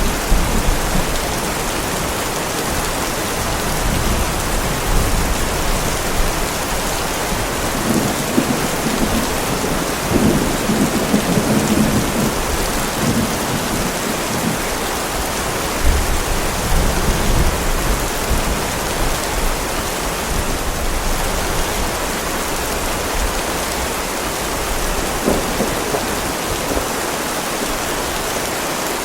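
Heavy rain pouring steadily, with thunder rolling low underneath. There is a fading rumble at the start, and the thunder swells again about eight to twelve seconds in and once more around sixteen seconds.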